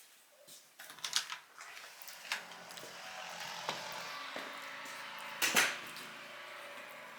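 Scattered clicks and knocks, the loudest about five and a half seconds in, over a faint steady hum.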